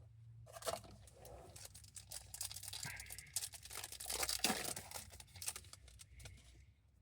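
A foil trading-card pack wrapper being torn open and crinkled: a run of crackling tearing and crumpling that lasts about six seconds and stops just before the end.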